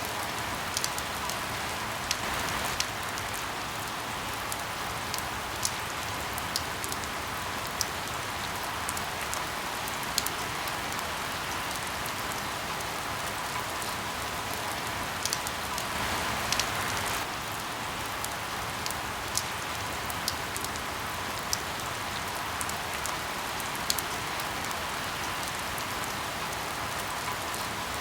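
Steady rain falling, with many individual drops ticking sharply on a surface over the hiss and a brief heavier spell about two-thirds of the way through.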